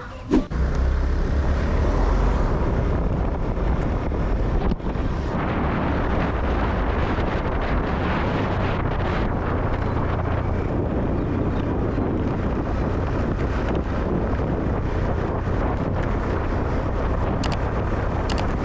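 Wind rushing over the microphone of a moving motorbike: a steady rushing noise, heavy in the low end.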